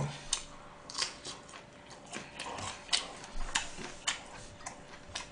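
Close-miked chewing of a mouthful of gwamegi (half-dried herring or saury): soft, irregular wet clicks and smacks of the mouth, one or two a second.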